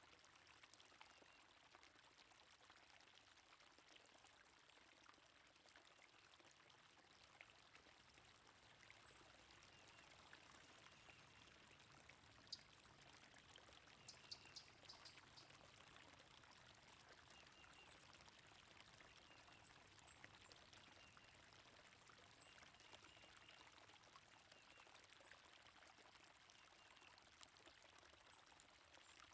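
Faint, steady rush of flowing water, with faint short bird chirps here and there and a brief flurry of high clicks about halfway through.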